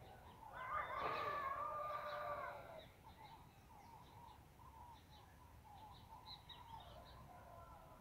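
Birds calling: one loud, drawn-out call of about two seconds near the start, then many short faint chirps from small birds.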